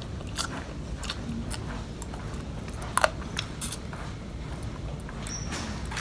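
Close-up eating sounds of someone chewing crispy fried catfish: irregular crunches and small chewing clicks, with a sharper, louder crunch about halfway through.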